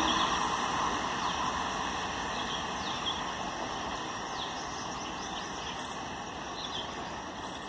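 Suburban electric train running away down the track, its rumble fading steadily, with a few short high bird chirps over it.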